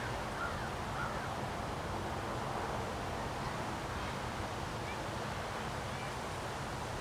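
Strong wind blowing steadily, rumbling on the microphone during a windstorm, with a few faint short bird calls in the first second and again near the end.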